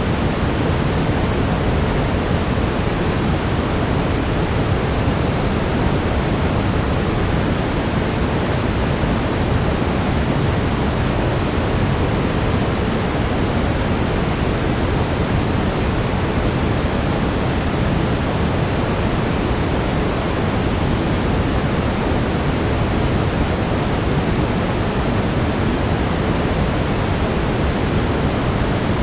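Steady brown noise: an even, unchanging rumbling hiss weighted toward the low end. A faint steady tone sits under it, the track's 432 Hz layer.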